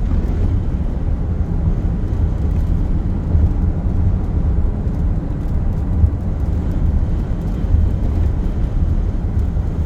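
Low, steady rumble of road and wind noise inside a moving car driving through strong, gusty winds, wavering in loudness.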